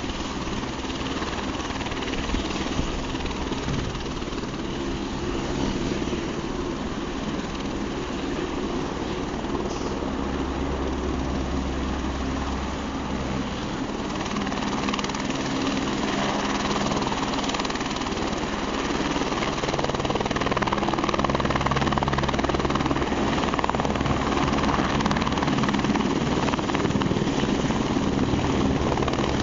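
Helicopter running, a steady rotor and turbine sound that grows louder after about twenty seconds.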